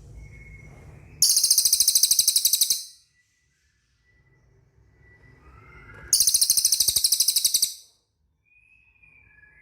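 Cililin bird song: two loud, high-pitched, fast pulsing trills, each about a second and a half long and some four seconds apart.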